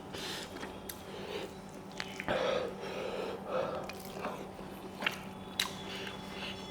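Close-miked mouth sounds of a person eating rice and smoked pork curry: wet chewing, lip smacks and a few sharp clicks, with breaths through the nose.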